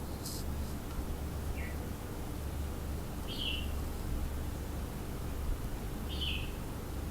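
Birds calling around zebra doves: three short, high calls spaced about two seconds apart, over a steady low rumble.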